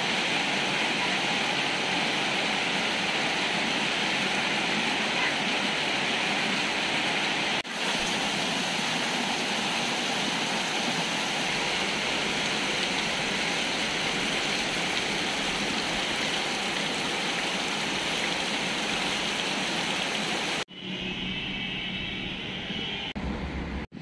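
Heavy rain pouring down, steady and even. About three seconds before the end it gives way to a quieter, different sound.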